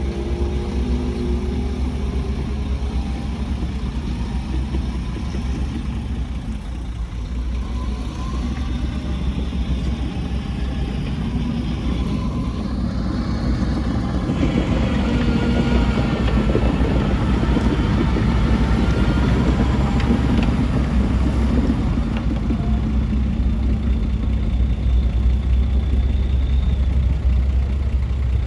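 Heavy diesel construction machinery running: a steady low engine rumble that gets louder about halfway through, with the engine note rising and falling as it works under load.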